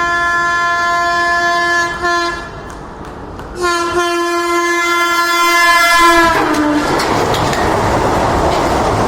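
Vande Bharat Express train sounding its horn: a long blast ending about two seconds in, a short blast, then another long blast. Around six seconds in the horn stops and the train rushes past with a loud, steady roar of wheels on the rails.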